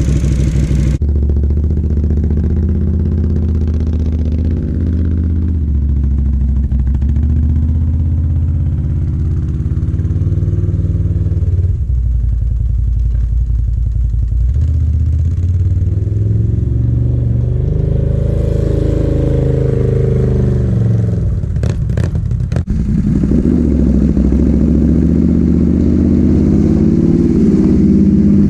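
Can-Am ATV engine running after a cold start, its pitch rising and falling several times as it is revved. A few sharp clicks come a little after the middle.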